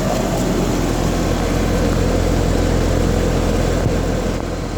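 Ameristar 3-ton air conditioning system running with a steady low hum.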